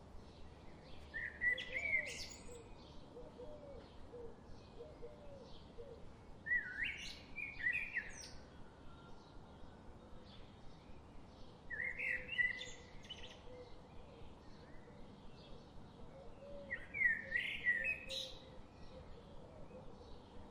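Wild songbird singing a short, rising, trilled phrase four times, about every five seconds, over a faint rapid ticking that runs steadily behind it.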